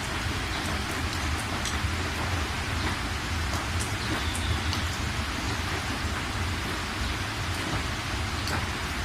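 Steady rain falling: a continuous even hiss with scattered drop ticks and a constant low rumble underneath.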